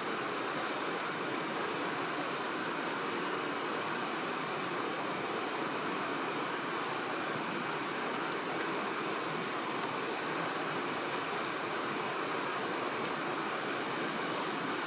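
Wood fire burning in a firewood grill: a few sharp crackles and pops, a second or two apart, over a steady rushing hiss.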